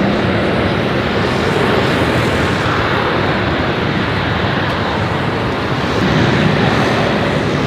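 Airbus A320-216 jet engines running, a loud, steady rush of jet noise that swells slightly near the end.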